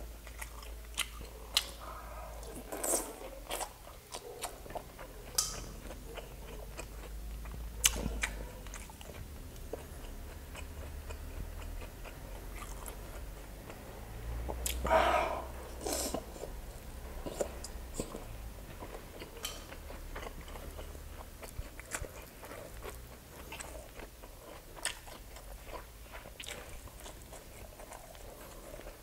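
A person chewing and biting grilled skewered street food dipped in vinegar with chopped onions, making many small wet mouth clicks and smacks. There is a louder bite about halfway through.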